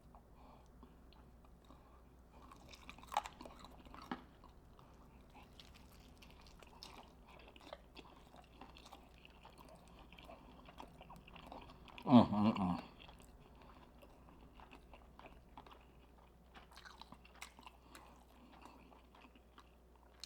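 Close-miked chewing and biting into a crispy fried chicken thigh: faint wet mouth clicks and crunches. There is one brief, louder sound with falling pitch about twelve seconds in.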